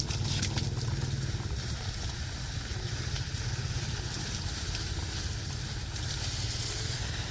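A small engine running steadily, a low even drone with a constant hiss over it.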